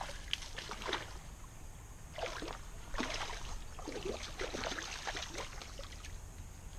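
River water splashing and sloshing in a run of irregular splashes, busiest through the middle.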